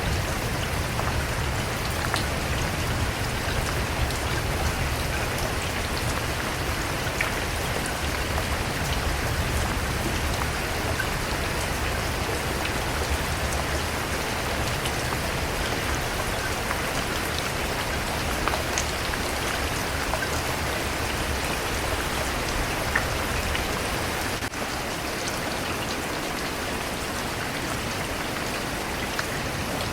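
Steady rain falling on a surface, with scattered individual drops ticking out above the hiss. A low rumble underneath eases off about four-fifths of the way through.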